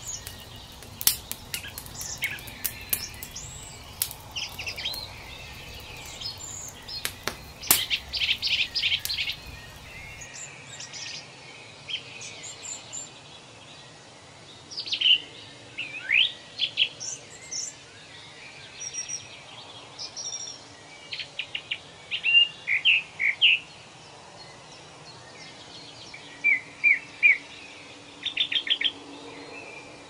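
Small birds chirping and calling in short repeated notes and quick pitch glides. During the first ten seconds, scattered sharp clicks and knocks sound under them.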